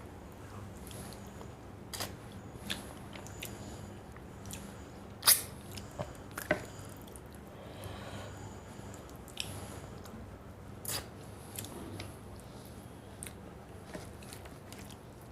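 A person eating a meal of fish curry and rice, with chewing and scattered short sharp mouth clicks; the loudest clicks come about five and six and a half seconds in.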